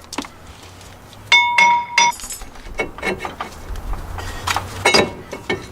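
Hammer blows on a stuck cast-iron brake rotor of a 2007 Nissan Maxima to knock it off the hub. Three hard strikes about a second in leave the rotor ringing with a clear metallic tone, followed by several lighter knocks.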